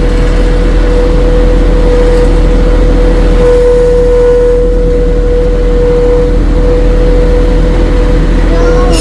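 Tractor engine running steadily under load with a constant high whine over a low rumble.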